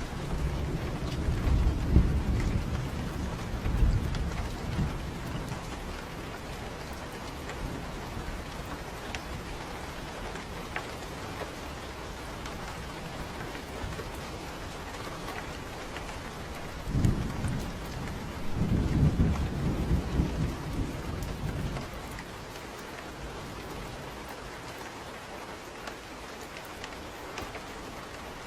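Steady rain with two low rolls of thunder: one rumbling through the first few seconds, and another starting about seventeen seconds in and lasting around five seconds.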